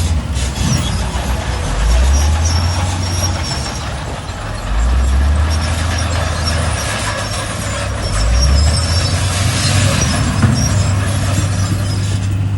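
Heavy diesel earthmoving machinery working: deep engine drone that revs up under load in surges about 2, 5 and 8 seconds in, with scattered high-pitched squeaks.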